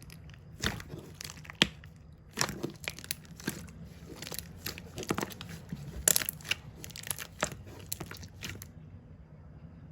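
Irregular taps, clicks and crinkling from small objects being handled, stopping suddenly near the end.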